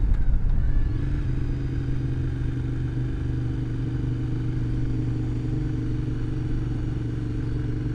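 Motorcycle engine running at a steady cruise while riding, with road and wind noise. It eases off slightly about a second in, then holds steady.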